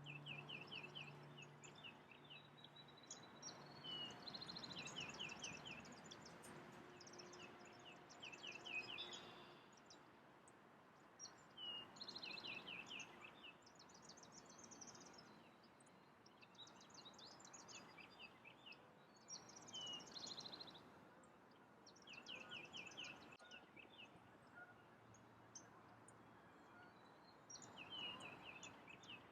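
A songbird singing the same short phrase again and again, a quick run of rapid high notes every few seconds, faint over a soft outdoor hiss. The last of a strummed acoustic guitar fades out at the start.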